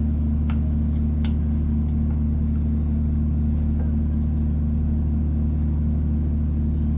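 A steady low mechanical hum, with two light clicks about half a second and a second and a quarter in.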